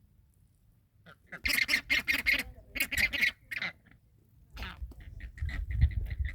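Flamingos calling: loud clusters of nasal honking calls from several birds start about a second and a half in, followed by a quick run of short, repeated calls. A low rumble of wind on the microphone builds near the end.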